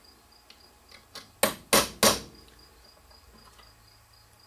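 Three sharp knocks about a third of a second apart, starting about a second and a half in, from striking the soldered end of a throttle cable; the solder has not bitten to the cable.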